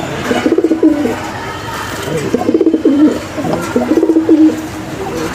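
Pigeon cooing: three rolling, wavering coo phrases with short pauses between them.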